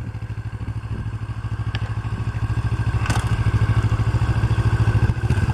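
Kawasaki Ninja 650R's parallel-twin engine running at low revs, growing steadily louder as the bike rides slowly through a practice turn, with a single light clack about three seconds in.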